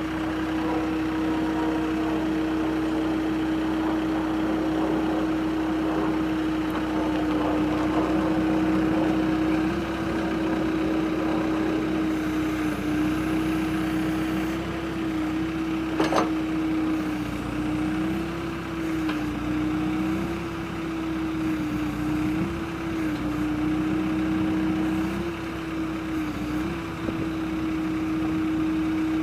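Diesel engine of a New Holland B95B backhoe loader running steadily, with a constant tone that dips briefly several times as the engine takes small loads. There is a single sharp click about halfway through.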